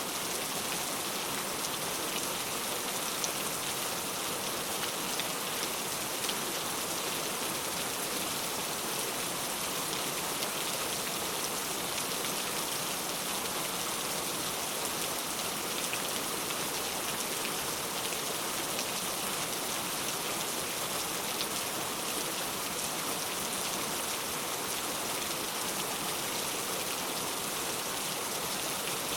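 Steady rain falling, a constant hiss with fine patter of drops on a surface.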